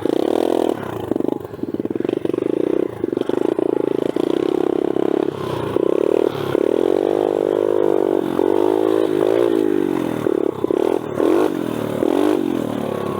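Small four-stroke single-cylinder pit bike engine running under throttle, its pitch rising and falling again and again as the throttle is opened and closed.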